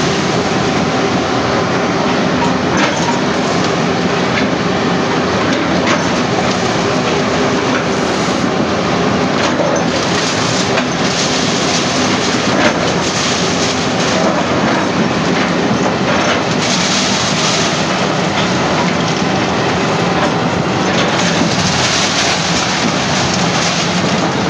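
Heavy machinery running steadily, a continuous mechanical rumble with a rattle.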